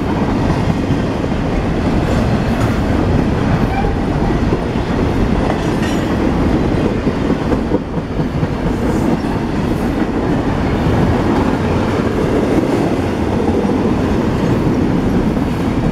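Cars of a double-stack intermodal freight train rolling past close by: a steady, loud noise of steel wheels running over the rails.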